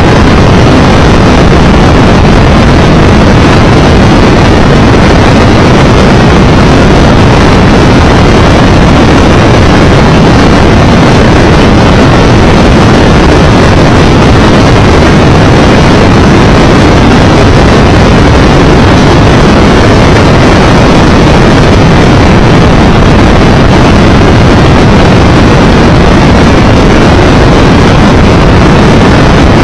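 Steady, very loud rush of wind and road noise over a motorcycle-mounted microphone at riding speed, with the Triumph Tiger Explorer's engine blended into it and no separate events.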